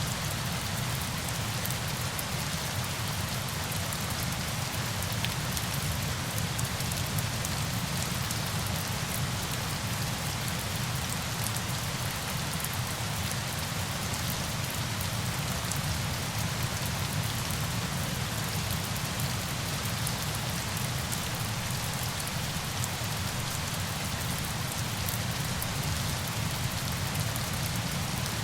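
Steady, unchanging sound of falling water, with a fine patter of drops over a low rush.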